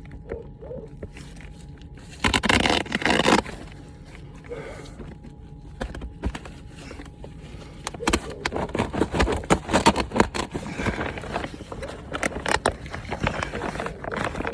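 Plastic crawlspace vapor-barrier liner rustling and scraping under a person crawling across it: one loud crumple about two seconds in, then a busy run of scrapes and crackles over the last several seconds.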